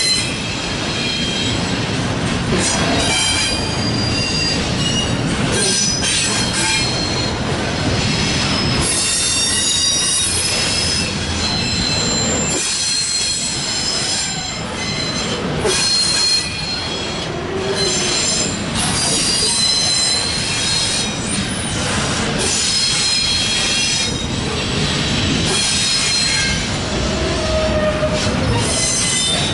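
Double-stack container well cars of a CSX intermodal train rolling past at close range. A steady rumble and clatter of steel wheels on rail runs throughout, with high wheel squeal coming and going.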